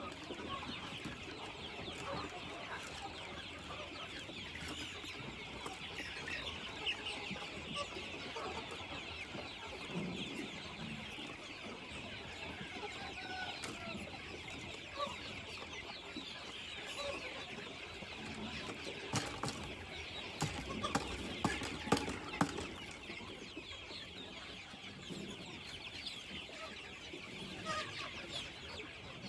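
A flock of chickens clucking and calling continuously, with many small overlapping calls. A few sharp taps or knocks come about two-thirds of the way through.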